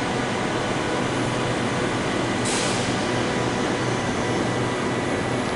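Steady noise inside a Perth electric suburban train carriage, with a short burst of hiss about two and a half seconds in.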